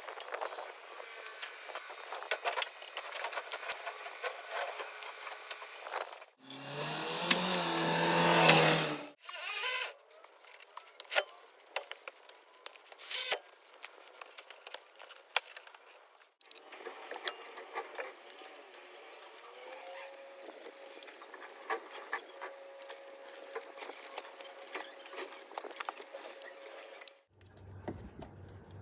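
Metal tools and brake parts clinking and rattling during a front brake job, with one louder, pitched power-tool whirr that swells for about two and a half seconds around six seconds in.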